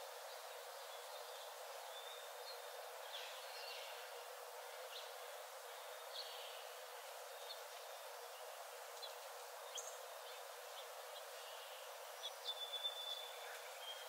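Small forest birds chirping and calling, scattered short chirps and whistles over a steady background hiss, with a louder run of calls and a held whistle near the end.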